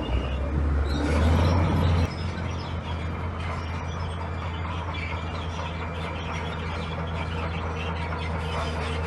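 Heavy diesel earthmoving machinery running with a low, steady rumble. It is louder for the first two seconds, then drops suddenly to a lower, even level as the engine eases off.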